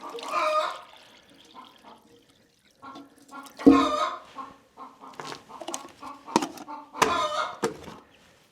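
Chickens clucking in short, repeated calls, with a single thump about three and a half seconds in.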